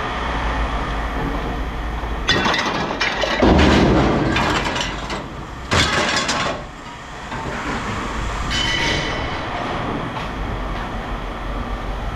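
Scrap aluminum extrusion clattering as pieces are thrown onto a pile: several bursts of metal clatter in the first half, the loudest about three and a half seconds in. A steady low machine rumble runs underneath.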